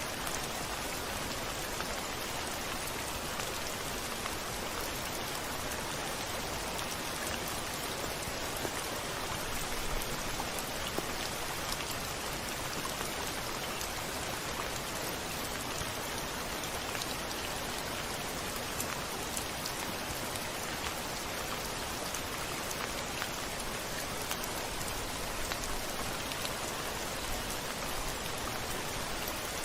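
Steady rain, an even hiss with individual drops ticking through it. No thunder is heard.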